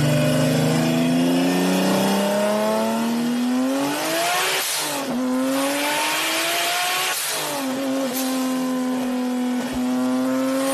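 Turbocharged 1997 Acura NSX's V6 accelerating hard through the gears. Its pitch climbs, falls at an upshift about four and a half seconds in and again about seven seconds in, each shift marked by a short hiss, then holds steadier near the end.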